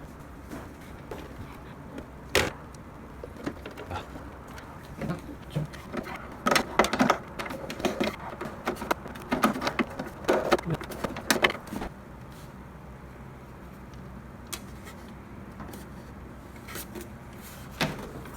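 Scattered clicks and knocks of espresso-machine parts being handled and fitted back together during reassembly, busiest in the middle of the stretch, over a steady low hum.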